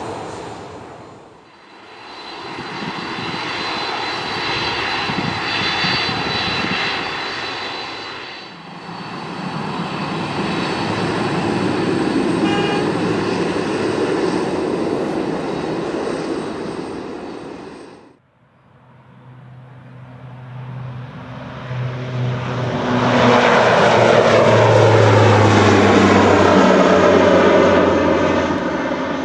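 Jet airliner engines in a run of short clips, a steady rush of engine noise broken by abrupt cuts. In the last clip, after about 18 seconds, a jet passes close by. It grows to the loudest point, with its pitch sweeping down as it goes past.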